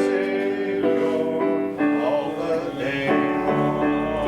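Keyboard music playing sustained chords that change about once a second.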